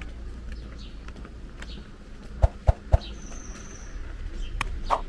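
Outdoor street ambience: faint short bird calls over a steady low rumble. Three sharp knocks come about two and a half seconds in, and two more clicks come near the end.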